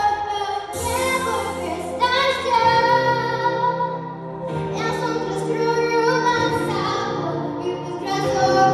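A young girl singing a pop song in a sustained, melodic voice over instrumental accompaniment.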